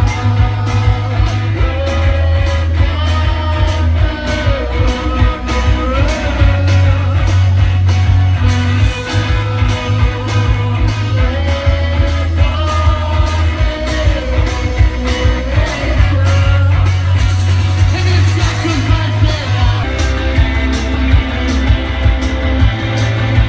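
Live rock band playing a song at full volume: a steady drum beat, a bass line moving between notes, electric guitars and a lead vocal.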